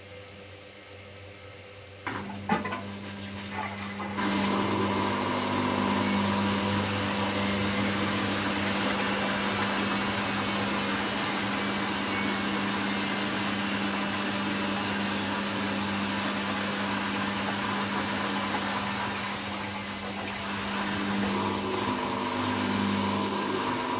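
Hoover washing machine clicking a few times about two seconds in, then its motor starting and running steadily with a low hum and a higher whine, easing off briefly before picking up again near the end.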